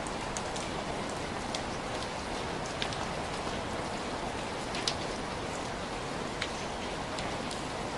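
Heavy rain falling steadily, an even hiss with scattered louder drips and drops striking a surface now and then.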